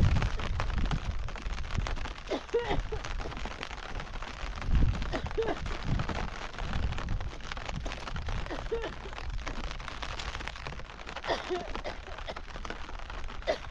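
Rain falling and pattering on surfaces, a steady hiss of many fine drops. Low thuds come now and then, and there are a few brief, faint voice-like sounds.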